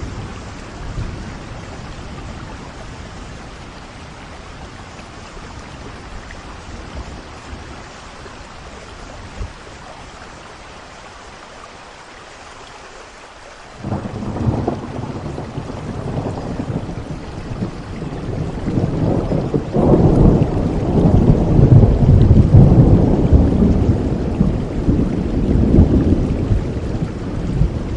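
Steady rain with thunder: a long rolling rumble starts suddenly about halfway through, builds, and is loudest near the end.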